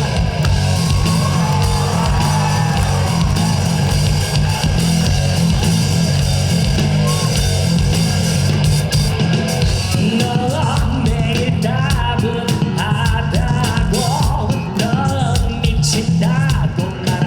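Live rock band playing at full volume, with drum kit, bass and guitars kicking in at once. A melody line comes in over it about ten seconds in.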